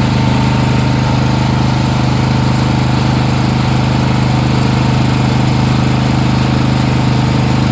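Small carbureted gas engine running at a steady speed, freshly started on choke.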